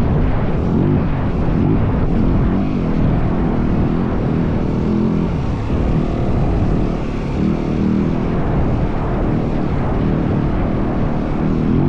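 Yamaha WR450F dirt bike's single-cylinder four-stroke engine running while riding at fairly steady throttle, its pitch rising and falling a little, over a steady rush of wind noise.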